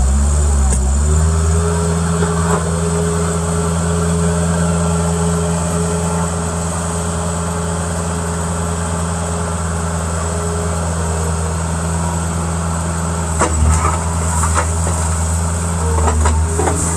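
Bobcat skid-steer loader's diesel engine running at a steady speed, with a few clanks near the end.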